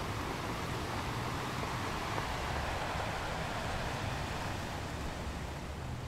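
Ocean surf breaking and washing over rocks: a steady rush of churning water that swells about two seconds in and eases toward the end.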